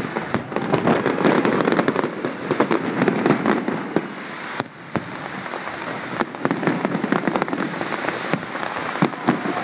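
Fireworks display: sharp bangs of bursting aerial shells over a dense, continuous crackling. The barrage eases off around the middle and builds again after about six seconds.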